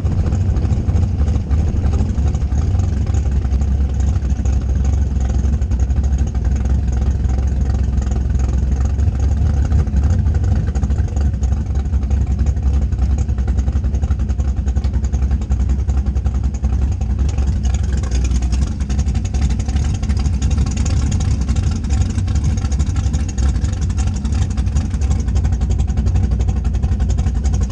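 Drag car's engine running steadily at low road speed, a loud, deep exhaust drone with wind and road noise on a camera mounted outside the car; more hiss comes in during the last third.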